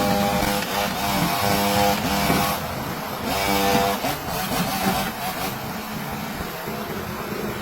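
Truck engine running, its note coming and going in spells of about a second, over a steady hiss.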